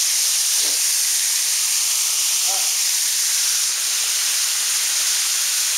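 Waterfall pouring down: a steady rushing hiss.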